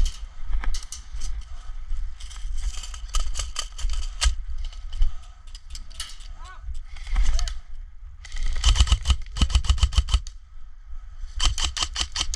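Airsoft guns firing in fast rattling bursts of sharp clicks and snaps, the heaviest about two-thirds of the way in and again near the end, over low rumble from wind and handling.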